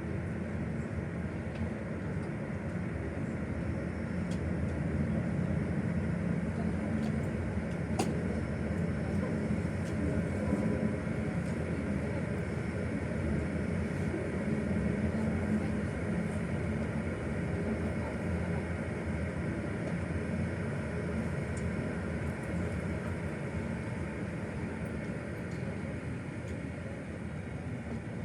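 Steady low rumble and hum of airliner and airport machinery, with a single sharp click about eight seconds in.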